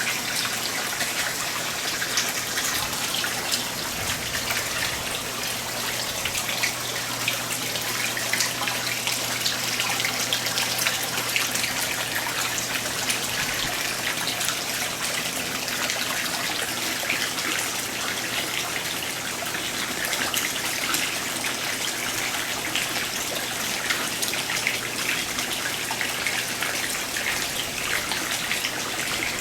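Water splashing and trickling steadily in a fish pond, with a constant low hum underneath.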